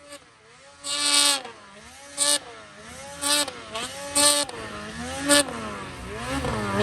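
Snowmobile engine revving up and down about five times, roughly a second apart, as the sled works through deep powder, then climbing and getting louder near the end.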